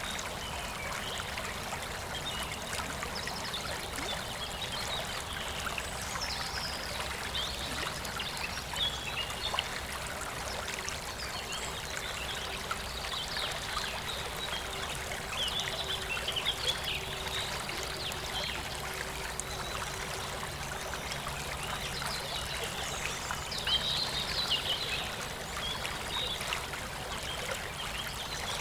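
Shallow clear stream flowing and trickling steadily over stones, with scattered short high chirping notes over the water, brightest about halfway through and again near the end.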